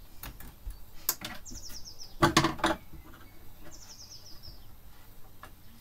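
A small bird singing a short, high trill of quickly falling notes, twice. About two seconds in comes the loudest sound, a brief creaky scrape with a few clicks, from hand work on the wooden dolls house, with a few lighter clicks before it.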